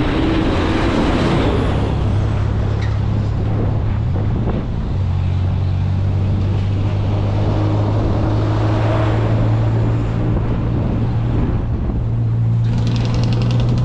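Motor vehicle engine running steadily with road noise, a low even hum. A fast, even rattle joins near the end.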